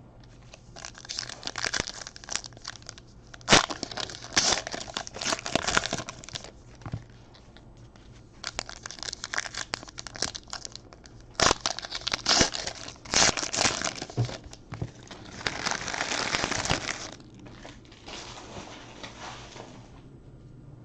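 Trading card pack wrappers being torn open and crumpled, in irregular bursts of crinkling with sharp crackles and short pauses between.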